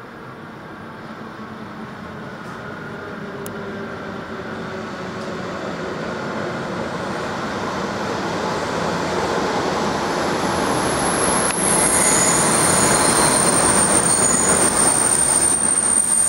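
Train approaching, its rolling noise growing steadily louder, with high-pitched wheel squeal setting in about two-thirds of the way through.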